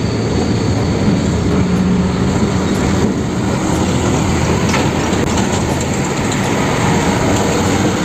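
Diesel fuel tanker trucks driving past on a road: a steady engine rumble with tyre and traffic noise.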